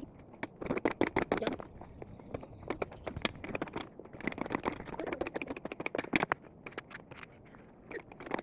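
Rustling and crackling: irregular clusters of sharp clicks and scrapes with short quiet gaps between them.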